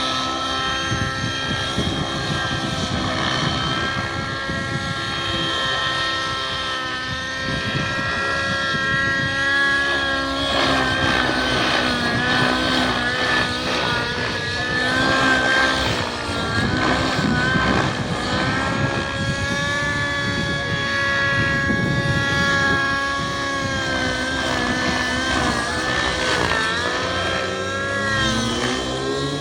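Radio-controlled model helicopter in flight: a steady motor-and-rotor whine whose pitch wavers and shifts as it manoeuvres, rising again near the end.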